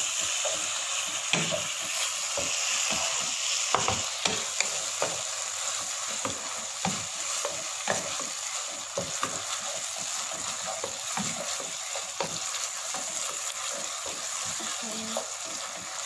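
Onions, dried chillies and sauce sizzling in a wok while a wooden spatula stirs them, scraping and knocking on the pan in irregular clicks over a steady frying hiss.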